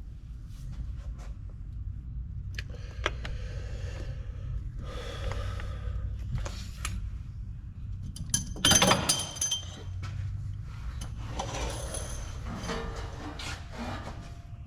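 Metal parts and tools clinking and rattling during hands-on repair work, over a low steady hum. The loudest moment is a sharp, ringing metallic clatter about nine seconds in.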